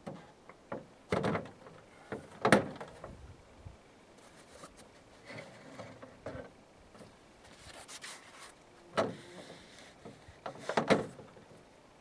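Knocks, clicks and scraping of the parts of a portable mini trimaran being handled and fitted together by hand, with the loudest knocks about two and a half seconds in and near the end.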